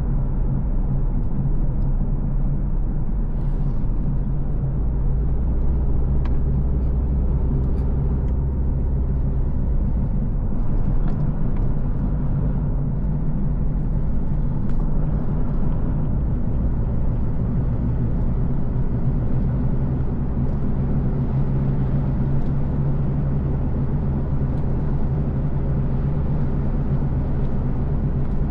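Car driving steadily along a road: a constant low rumble of engine and tyres, with a few faint light clicks.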